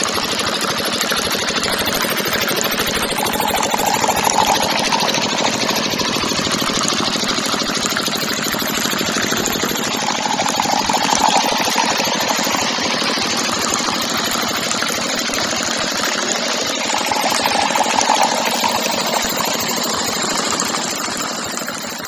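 Small engine of a homemade miniature tractor running steadily with a rapid chattering beat, swelling slightly about every seven seconds.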